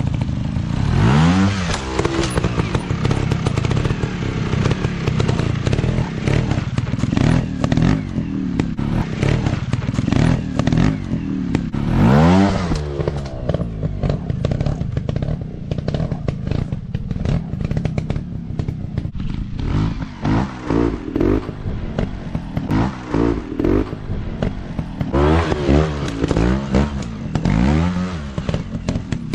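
Off-road dirt bike engine revving under throttle, with a sharp rise in pitch about a second in and again near the middle, then a series of quick throttle blips in the last third.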